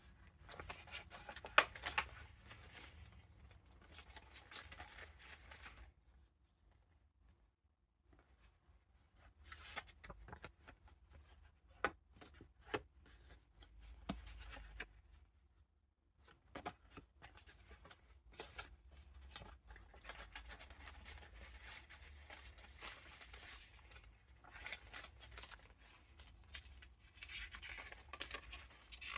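Pages of a handmade paper junk journal being turned and handled: soft paper rustling and crinkling with scattered sharp taps, broken by two short pauses.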